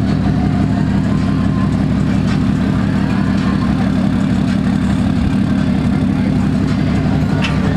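Diesel truck engine running at a steady speed, a constant low drone with no revving.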